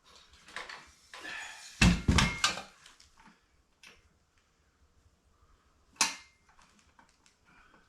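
Metal jack parts and hand tools being handled: a rustle, then a quick cluster of loud clanks about two seconds in, and a single sharp knock about six seconds in.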